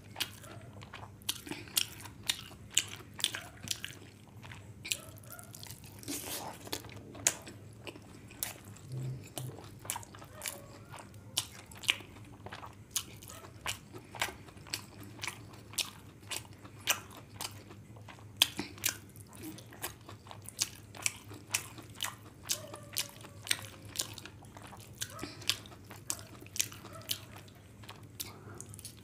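Close-miked chewing and mouth sounds of a person eating fried rice and egg curry by hand: sharp clicks and smacks, about two to three a second, over a faint steady low hum.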